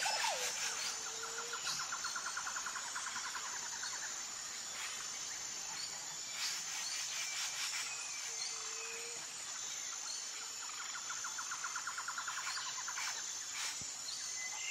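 Outdoor bird chorus: a rapid trill runs for about three seconds near the start and again for about three seconds later on, with short low whistled calls in between, over a steady high-pitched buzz.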